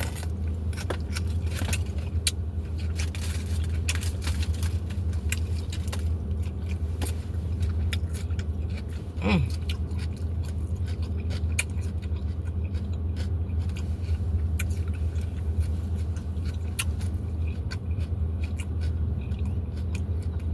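Close-up chewing and mouth sounds of someone eating tacos: many small irregular clicks and smacks over a steady low hum.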